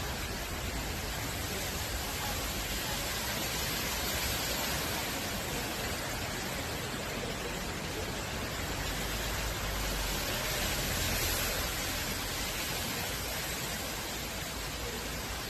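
Steady rushing noise of water from heavy rain and flooding, swelling slightly a little past the middle.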